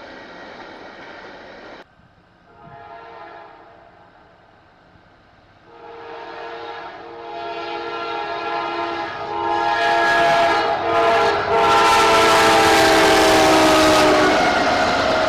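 Train rumble that cuts off about two seconds in; then a locomotive air horn sounds for the grade crossing: a brief blast, then a long blast that grows louder as the train approaches, its pitch dropping as the locomotive passes, with the loud rush and rumble of the train going by.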